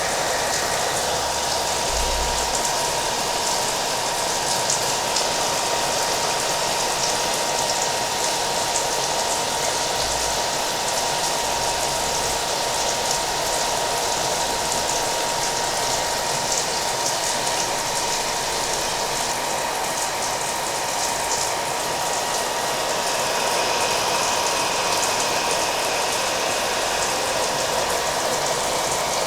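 Hair dryer running steadily, a constant airy rush with a thin steady whine, mixed with rain pattering.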